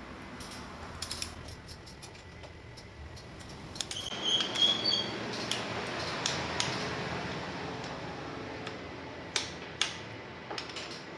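Hand tools working on a motorcycle engine during final torque tightening with a torque wrench: scattered sharp metallic clicks and clinks, over a steady background noise that comes up about four seconds in.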